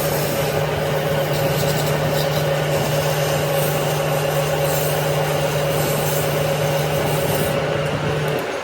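A machine running steadily with a rubbing, rasping noise over a constant low hum, stopping near the end.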